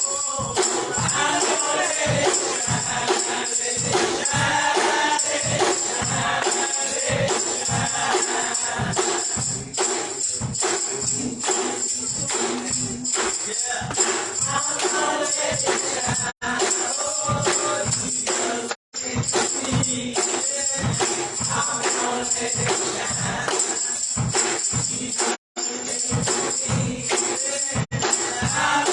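Gospel church music: a band playing a steady driving beat with a tambourine shaking and a choir singing. The sound cuts out for an instant a few times.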